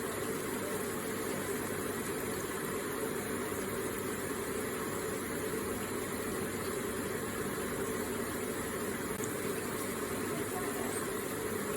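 Electric water feature with water trickling and splashing steadily.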